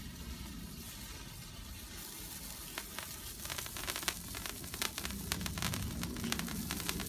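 A small firework burning with a steady hiss. About three seconds in, rapid irregular crackling pops join the hiss.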